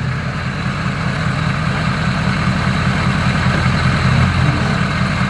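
Ford F-250's Powerstroke V8 turbodiesel running steadily at a low, even speed.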